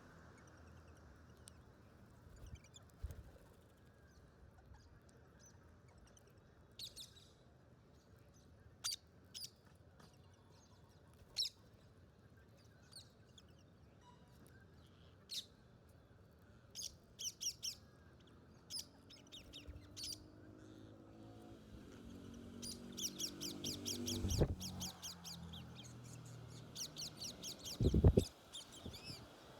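Wild parrots chirping in short, high calls, scattered at first. About three-quarters of the way in they break into a fast, rapid chatter. A lower, harsher call sounds under the chatter, and two short thumps come near the end.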